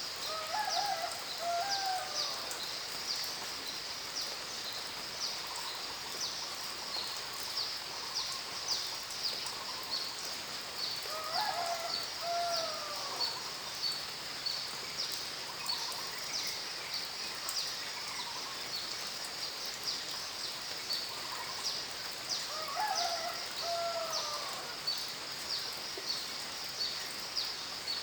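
A bird sings a short phrase of gliding whistled notes three times, about eleven seconds apart, over a steady high hiss with rapid ticking.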